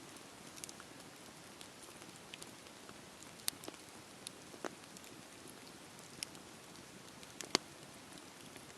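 Wood fire burning with a steady soft hiss and irregular sharp crackles and pops, the loudest pop about three-quarters of the way through.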